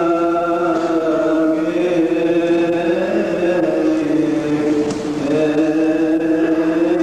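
A priest's voice chanting a long melismatic passage of the Coptic Orthodox liturgy, drawing out sustained notes that bend slowly up and down.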